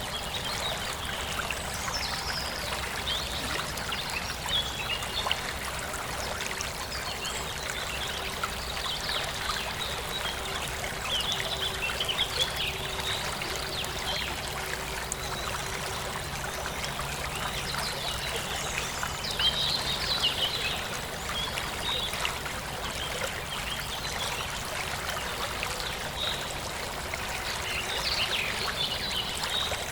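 A small forest stream running and trickling steadily, with birds chirping intermittently over it.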